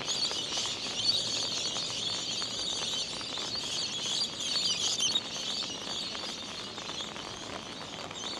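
Many small birds chirping and twittering at once, a dense, busy chorus of quick high calls.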